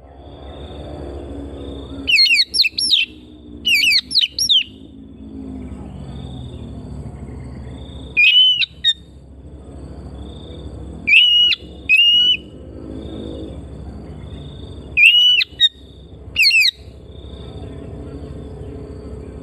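Oriental magpie-robin singing: loud, fast whistled phrases in four short bursts, with pauses of a few seconds between them. Behind the song runs a faint steady background with a soft high note repeating about every second.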